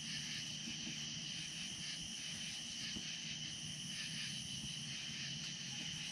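Chorus of night insects such as crickets, a steady high trill that carries on unchanged.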